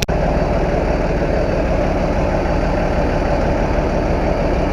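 A failing car engine running at idle, a loud, steady mechanical noise heavy in the low end. It is an engine that is dying.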